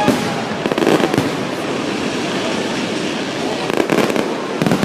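Fireworks display: a continuous crackle of bursting shells, with sharp bangs in a cluster about a second in and again in several near the end.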